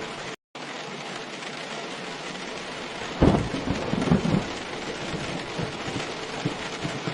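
Steady heavy rainfall with a rumble of thunder starting suddenly about three seconds in and dying away over a second or two. The sound drops out completely for a moment just after the start.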